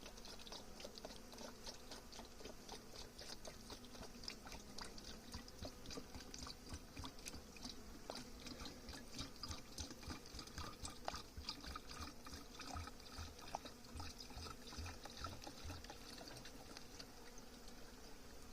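Sugar syrup being poured into a hive feeder, trickling with many small drips and splashes, over a faint hum of honeybees.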